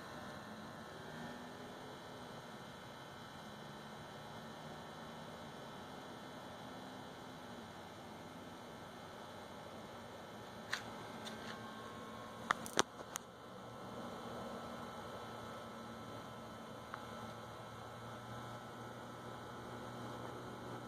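A faint, steady hum with a few sharp clicks about halfway through.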